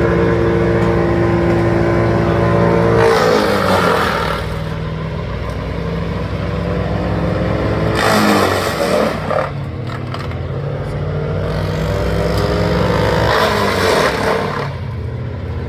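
A large engine running steadily. Three times its pitch dips and a noisy rush rises over it before it recovers.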